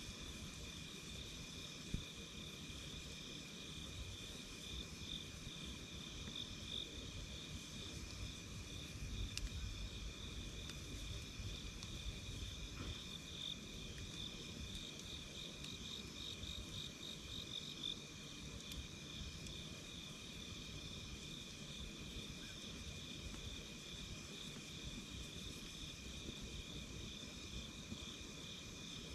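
A chorus of night insects, mostly crickets, chirping in steady, pulsing high bands. A low fire rumble lies beneath, with one sharp crackle about two seconds in.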